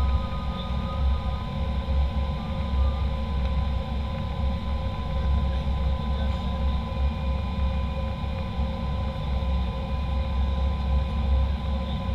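Steady low rumble of a jet airliner heard from inside the passenger cabin, with faint steady whining tones running through it.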